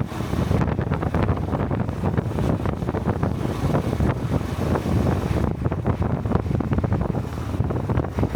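Wind buffeting the microphone over a Honda Cub's 125 cc single-cylinder engine running steadily at riding speed.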